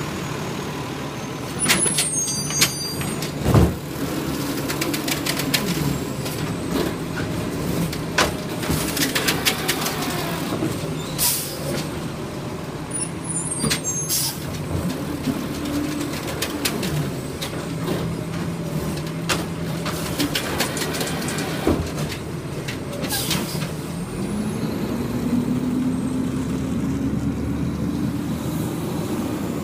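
Garbage truck at work: its diesel engine running, with air brake hisses and a string of clanks and knocks. Near the end the engine revs up in a slow rising pitch.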